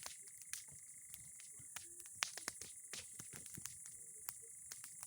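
Bonfire of old boards and pine cones crackling, with irregular sharp pops over a steady hiss.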